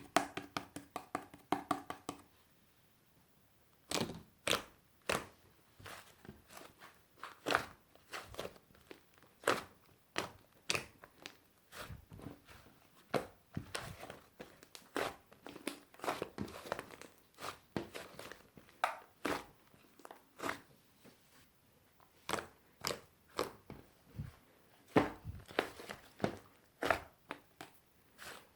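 Fluffy slime being pressed, folded and stretched by hand, making irregular sharp pops and crackles about one or two a second, with a few short pauses.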